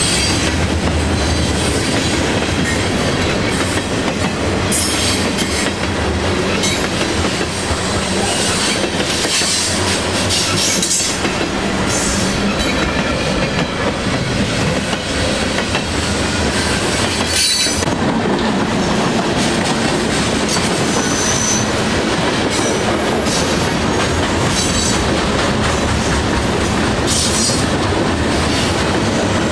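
Freight cars rolling past close by: steel wheels running over the rails in a steady loud clatter with clicks from the joints, and a few brief high wheel squeals.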